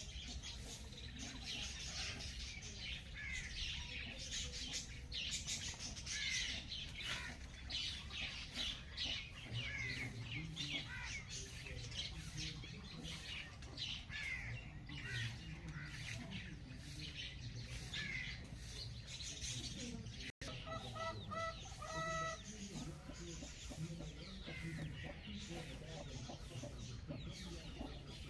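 Morning bird chorus: many small birds chirping and twittering rapidly and continuously, with low clucking from chickens now and then. A split-second dropout comes about two-thirds through.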